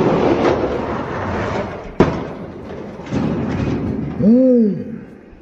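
Die-cast toy monster trucks rolling down a track with a rumbling clatter, and a single sharp clack about two seconds in. Near the end comes a short pitched sound that rises and then falls.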